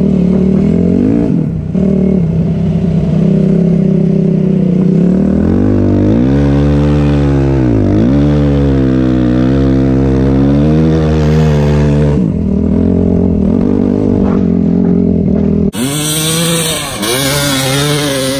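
Dirt bike engine running and being revved, its pitch rising and falling. About three seconds before the end the sound changes abruptly and a loud hiss joins the engine.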